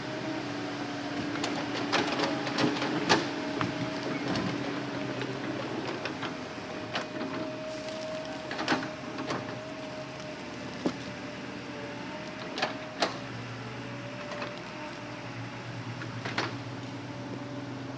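Hitachi Zaxis excavator engine running steadily, with sharp knocks and clicks scattered through it as it works loading logs. A deeper note comes into the engine sound about two-thirds of the way through.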